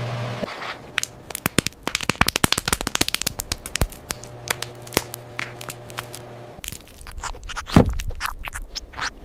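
A dense, irregular run of sharp clicks and taps with a crackling quality, a low steady hum in the middle, and one heavy thud near the end.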